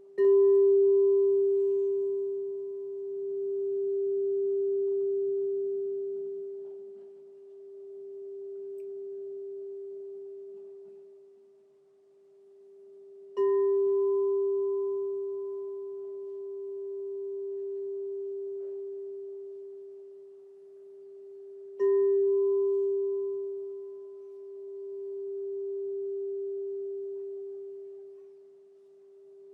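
Crystal singing bowl struck three times, near the start, about 13 seconds in and about 22 seconds in. Each strike rings on as one long, low, pure tone with a fainter higher overtone that dies away within a few seconds, while the main tone slowly swells and fades as it sustains.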